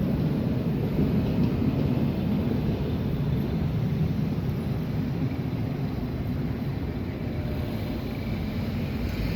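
Passing NJ Transit commuter train, a steady low rumble that slowly fades as it moves away.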